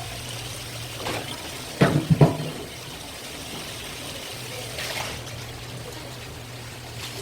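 Water running and trickling over a steady low hum, with a few sharp knocks about two seconds in, the loudest sounds here, and fainter ones near one second and five seconds.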